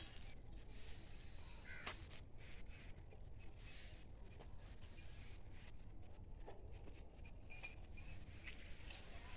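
Faint outdoor ambience: insects chirping in high, steady tones that come and go, over a low rumble, with a few short clicks.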